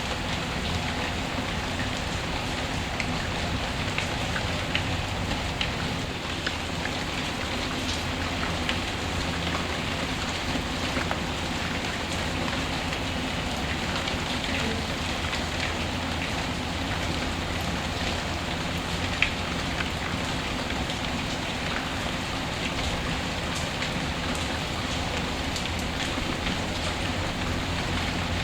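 Steady rain ambience mixed with a fireplace's scattered small crackles, with one sharper crack about two-thirds of the way in.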